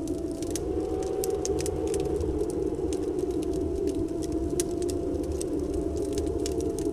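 Wood fire crackling with irregular sharp pops, over a steady low rush of snowstorm wind carrying a faint, slightly wavering whistle.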